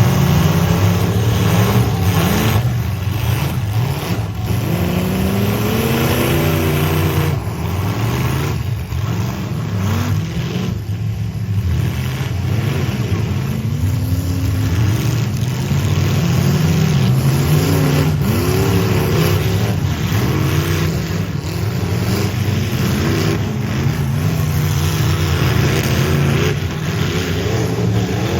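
Car engines running, with repeated revs that rise and fall in pitch over a steady low engine drone.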